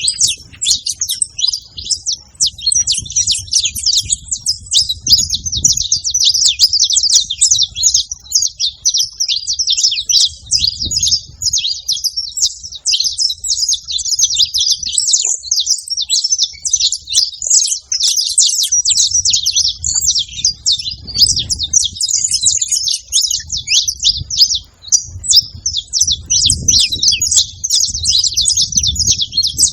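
Several saffron finches singing at once, a dense, unbroken chorus of quick high notes overlapping one another. A faint low rumble comes and goes underneath.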